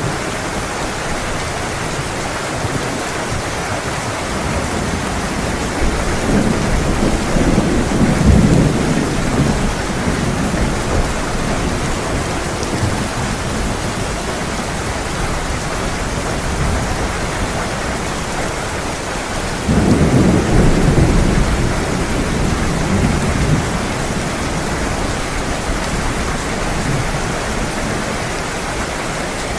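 Heavy rain falling steadily, with two rolls of thunder: a rumble swelling about a quarter of the way in, and a sharper, louder one breaking about two-thirds of the way in and fading away.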